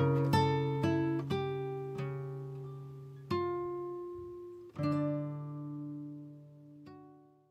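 Background music: plucked acoustic guitar notes ringing and fading out, the last chord dying away near the end.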